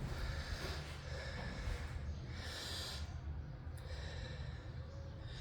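A man breathing close to the microphone, a few audible breaths in and out, over a steady low rumble.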